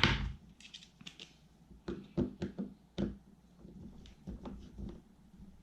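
Light, irregular clicks and taps of small metal parts and screws being handled and fitted while an Abu Garcia SX10 fishing reel is put back together, with a sharp click at the very start and a quick run of clicks about a second in.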